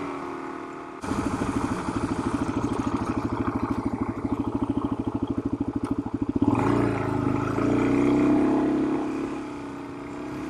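Suzuki DR-Z400's single-cylinder four-stroke engine under way on a sandy dirt road. About a second in it changes to a rapid, evenly pulsed chugging, and about six and a half seconds in the engine note rises and wavers again as the throttle changes.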